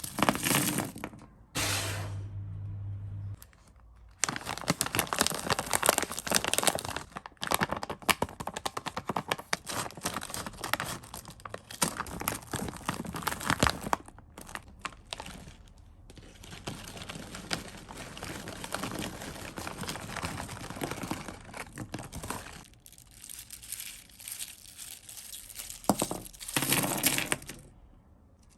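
Plastic sweet and chocolate wrappers crinkling and rustling, with packaging being torn open, in irregular crackly bursts that pause now and then.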